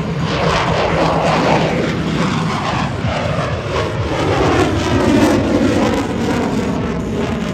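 F-16 fighter jet flying past, its engine noise loud and steady with a whine that falls slowly in pitch as it goes by.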